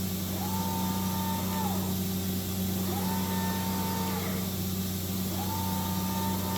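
Servo drive of a Matsuura MX-520's 4th (A-axis) trunnion table whining as the axis is jogged back and forth at rapid: the pitch rises, holds for about a second and falls, three times over. A steady low hum from the running machine lies underneath.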